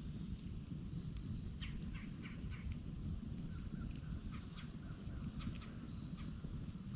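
Wood campfire crackling, with scattered sharp pops over a steady low rumble. About two seconds in comes a quick run of four or five short calls.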